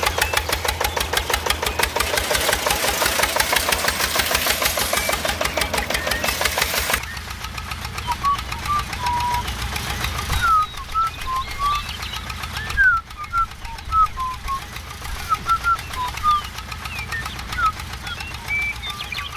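An RC car's motor runs loud with a rapid, even pulsing, then cuts off sharply about seven seconds in. What follows is a quieter low hum with short, high chirps scattered through it.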